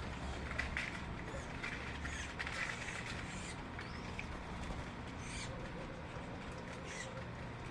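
Small birds chirping: scattered short calls and quick whistled sweeps, over a steady low rumble.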